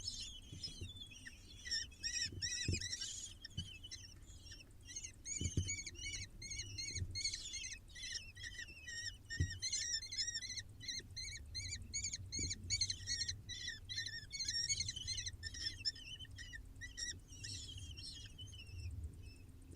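Falcon chicks begging during a feeding: a dense run of short, rapid, high-pitched chirps from several young at once, thinning out near the end, with occasional low thumps.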